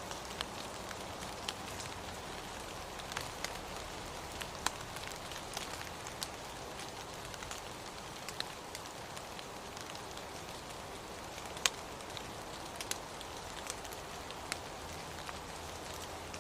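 Steady rain falling, a soft even hiss with scattered sharp taps of individual drops landing at irregular intervals.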